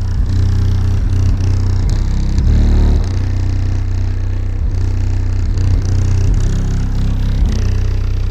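Car audio subwoofers playing bass-heavy music loud, with deep bass notes that change every second or so and swamp everything else. The amplifier is only about halfway up. The sound is dulled by a finger partly over the microphone.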